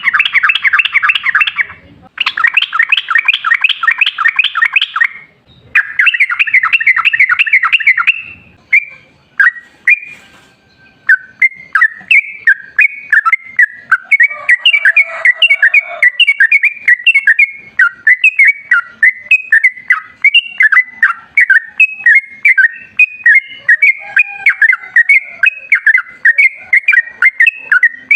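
Yellow-vented bulbul (trucukan) singing: three fast rattling trills, then a long run of quick chirping notes in an unbroken chattering song.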